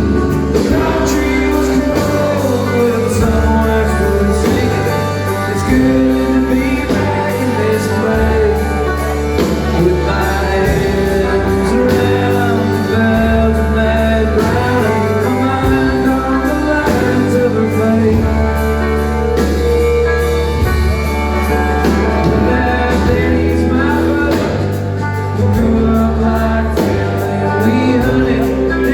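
Live country band playing a song with male lead vocals, guitars and drums, amplified in a large hall, with a steady beat.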